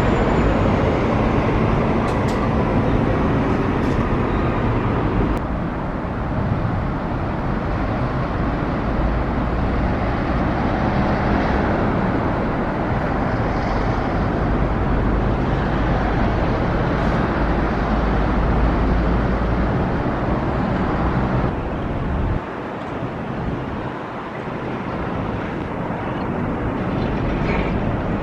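Road traffic: a steady rumble of vehicles running and passing, with the sound shifting abruptly twice.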